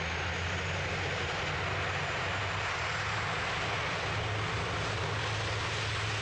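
Airliner engines running at steady power: an even rushing noise over a low hum.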